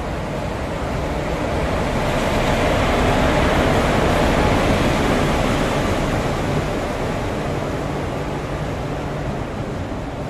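WAP-4 electric locomotive arriving and passing along the platform, followed by its passenger coaches rolling past with a steady rumble of wheels on the rails. The noise swells as the locomotive goes by, about three to five seconds in, then eases as the coaches follow.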